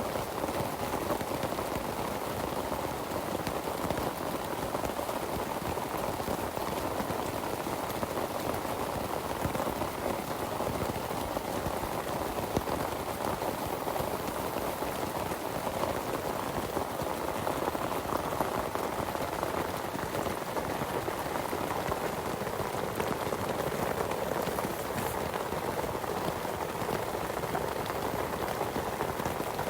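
Heavy rain falling steadily: a dense, even patter of drops that holds without let-up.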